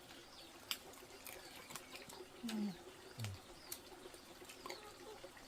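Small birds chirping in short high notes, with scattered light clicks of chopsticks and bowls at a meal and a couple of short, low, falling coos.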